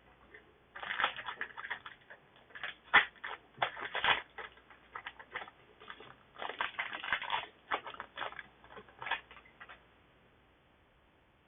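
Crinkling and tearing of a foil trading-card booster pack and handling of the cards inside: a long run of irregular sharp crackles and clicks, thickest in two bursts, that stops about two seconds before the end.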